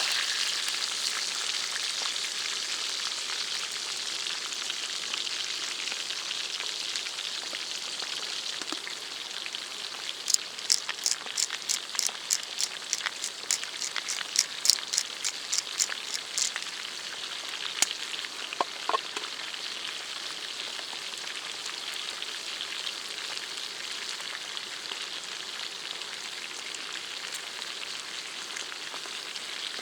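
Food sizzling steadily in a pan over a campfire. In the middle comes a run of quick, even clicks, about three a second, for some six seconds.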